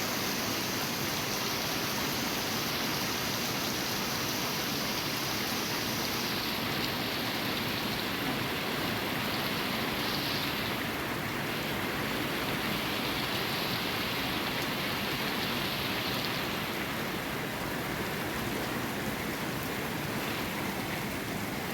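Steady rainfall, a constant hiss of falling rain.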